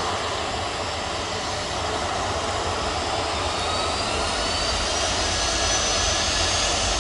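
Jet airliner engines running with a dense, steady rush. From about halfway a high whine rises in pitch.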